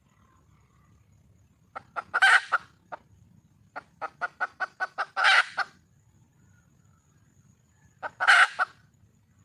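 Junglefowl hen calling for a mate: three bouts of short clucks, each rising into a loud, harsh squawk, a few seconds apart.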